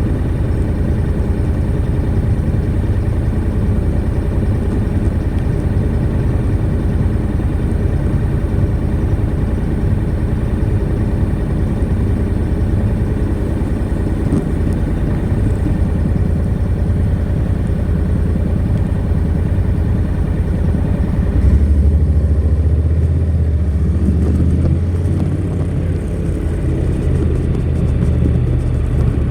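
Honda NC700X's 670 cc parallel-twin engine running on its stock exhaust, a steady low engine note. About 21 seconds in the note turns deeper and fuller while the higher hiss fades.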